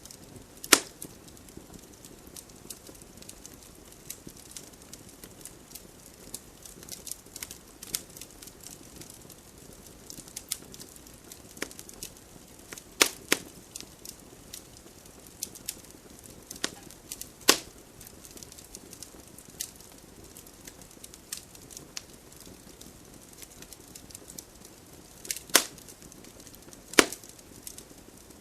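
Campfire crackling: frequent small sharp cracks over a faint steady hiss, with several louder pops spread through, among them one about a second in and one near the end.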